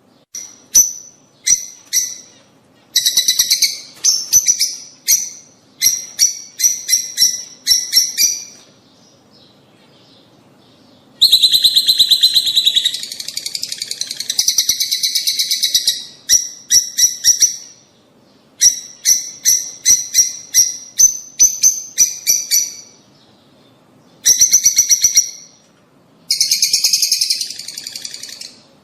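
Lovebirds (rosy-faced and Fischer's) chattering: loud runs of sharp, high-pitched chirps in bursts of a second or few, with short pauses between. This is breeding-stimulation audio, meant to bring lovebirds into mating condition.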